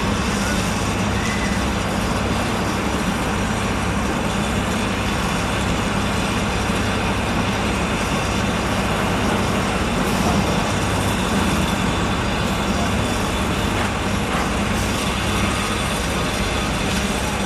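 Steady engine rumble with a constant low hum, unchanging throughout.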